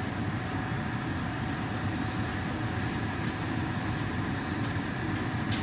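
Steady low rumbling noise with a few faint constant tones above it, holding the same level throughout.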